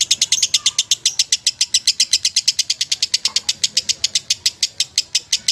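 Lovebird singing a long, unbroken trill of rapid high chirps, about nine a second.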